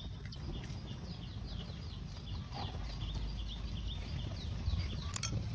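A bird repeating short, high, downward-sliding chirps, about three a second, over a steady low rumble, with one sharp click near the end.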